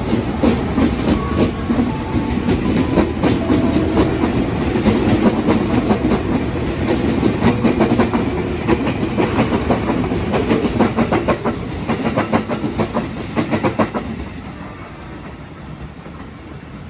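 JR 205 series electric commuter train running past close by, its wheels clacking rhythmically over rail joints above a low rumble. The clatter dies away about fourteen seconds in, leaving the steady hiss of rain.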